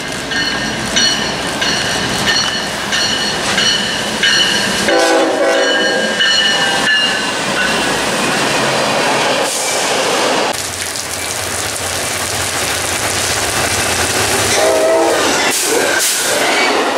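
Diesel freight locomotive sounding a multi-note horn as it approaches a grade crossing, then the steady rolling clatter of a long freight train's cars passing. Near the end a passenger train passes, its locomotive's engine heard briefly and its horn sounding once more.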